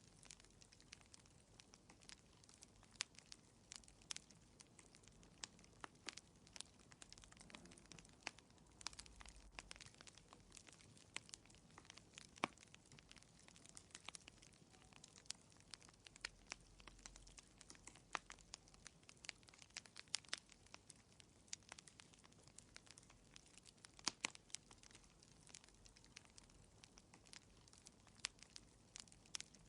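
Fireplace wood fire crackling: a steady stream of irregular sharp pops and snaps, a few louder ones standing out, over a faint soft hiss.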